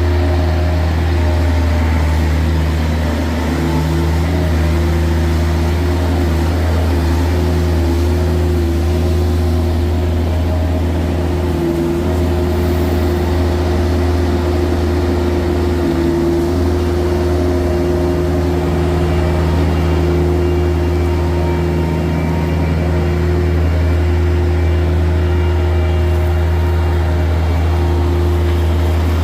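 Truck engine running steadily, a low even drone.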